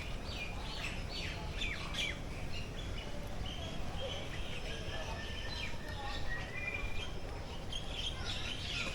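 Several birds chirping and calling at once, with many short down-sweeping chirps and a few longer held whistles.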